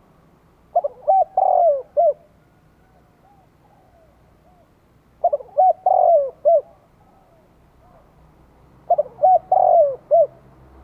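Spotted dove cooing its calling song: three phrases about four seconds apart, each a few short coos and one longer drawn-out note, with fainter coos between the phrases.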